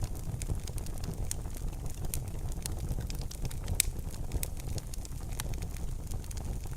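Fire burning in a fireplace, crackling: scattered sharp pops and snaps over a steady low rumble of the flames, with one louder pop a little past the middle.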